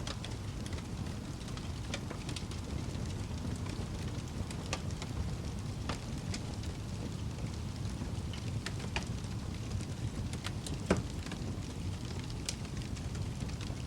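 Wood fire crackling in a fireplace: a steady low rumble of the flames with scattered sharp pops and snaps, the loudest pop about eleven seconds in.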